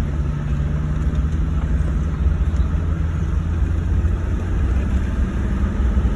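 Vehicle being driven along a rough farm track, heard from inside its cab: a steady low rumble of engine and road noise.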